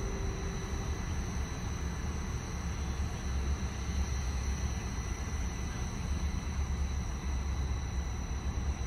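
Passenger train cars rolling slowly on curved track, a steady low rumble, with the last of the train horn dying away within the first second.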